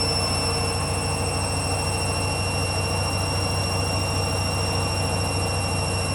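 Hoover Dynamic Next washer-dryer spinning at about 800 rpm. The motor and drum give a steady whine over a low hum.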